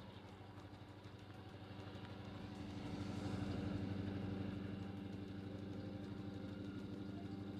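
Excursion train's locomotive engine running with a steady low throbbing drone, growing louder over the first three seconds or so and then holding steady.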